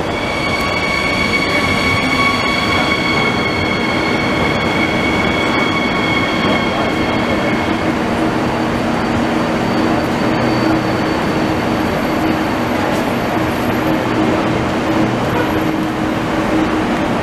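Siemens Desiro HC double-deck electric train rolling in along the platform and slowing, with a high steady squeal over the rolling noise that fades out about eight seconds in. After that a lower steady hum continues as the train creeps to a stop.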